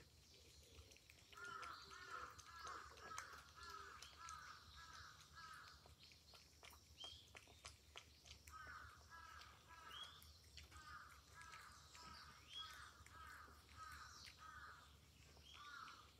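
A bird calling in long runs of repeated short notes, about two a second, with a few separate rising whistles between the runs, over faint quick clicks from a cat lapping at its bowl.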